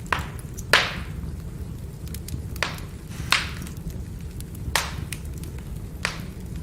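Firewood burning: a steady low rumble of the fire with sharp crackling pops, about six of them a second or so apart, the loudest just under a second in.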